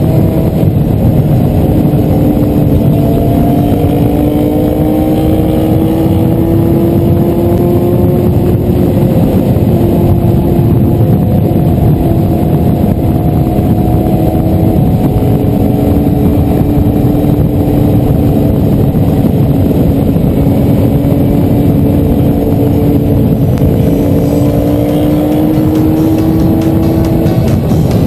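Motorcycle engine running at a fairly steady speed, its pitch drifting slowly up and down as the throttle eases on and off, under heavy wind noise on the microphone.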